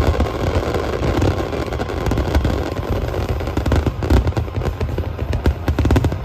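Aerial fireworks going off in a continuous barrage: low booms under dense, rapid crackling, with the crackles growing sharper and thicker from about four seconds in.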